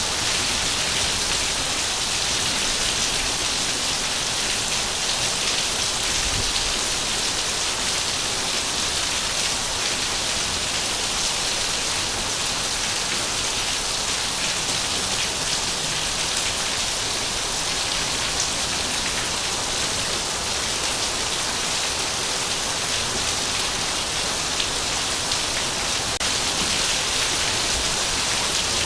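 Heavy rain falling steadily, a dense even patter with no pauses.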